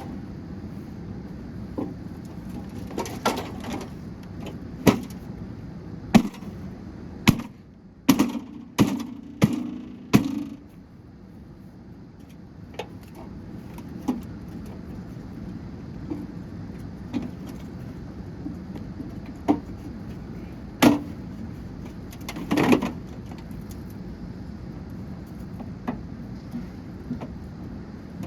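Hard blows on a gutted Rival microwave oven as it is being smashed apart: irregular single knocks and cracks, with a quick run of them about eight to ten seconds in.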